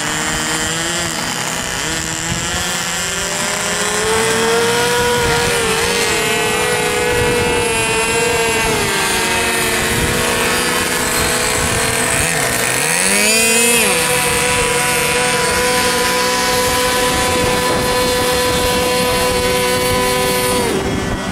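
Several small model-aircraft engines, OS .32 two-stroke glow motors, running at high revs together, their whines rising and falling as the planes swoop past, with a sharp swoop about 13 seconds in. One steady engine note carries on and stops just before the end.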